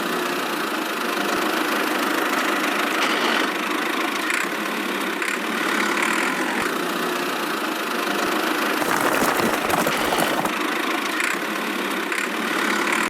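Small motor of a DIY miniature construction vehicle running steadily.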